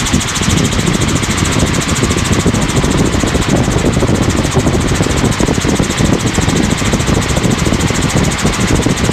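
Helicopter in cruise flight, heard from on board: a steady, loud drone of rotor and engine with a fast, even rotor beat.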